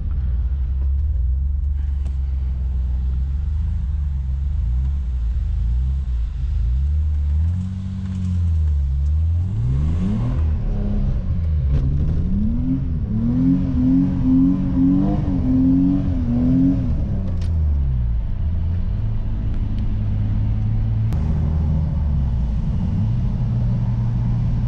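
BMW E28's engine heard from inside the cabin, revving up and down under hard acceleration. Around the middle the revs climb highest in a string of quick rises and dips, then fall away and settle to a steady drone near the end.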